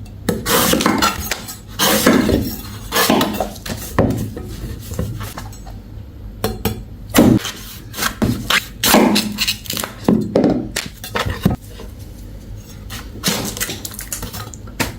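An irregular series of about a dozen hard knocks and clinks, each with a short ringing tail, over a steady low hum.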